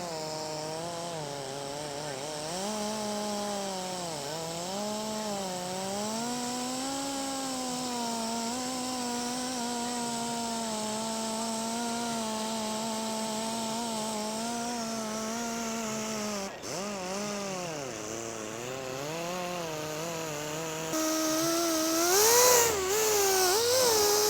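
Rotary buffer with a polishing pad running on gelcoat at low speed, its motor whine wavering in pitch as it loads and unloads against the surface. About 21 seconds in it gets louder and higher.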